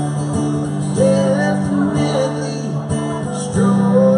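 Live song: strummed acoustic guitar chords with a sung vocal, the word "definitely" sung about two and a half seconds in.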